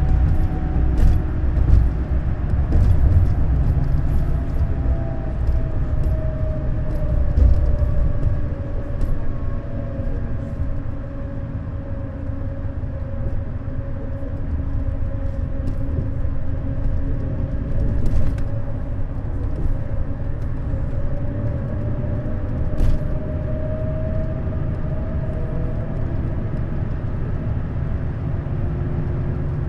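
Neoplan Skyliner double-decker coach under way: a steady low engine and road rumble with a whine that sags slightly in pitch and climbs back over about twenty seconds. A few sharp clicks and rattles come in between.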